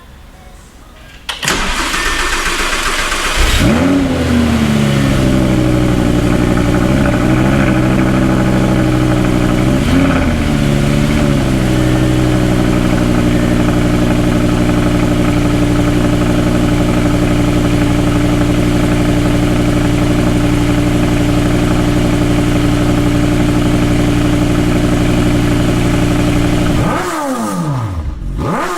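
Audi R8 V10 engine cranked on the starter, catching after about two seconds, flaring and blipping briefly, then idling steadily before shutting off near the end. It is the first start after camshaft timing work meant to cure a misfire.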